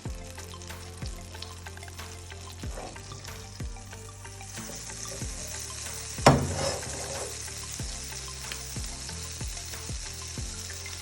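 Mini hamburger patties frying in butter in a pan, with sizzling that swells about four and a half seconds in. A loud knock comes about six seconds in. Background music with a steady beat runs underneath.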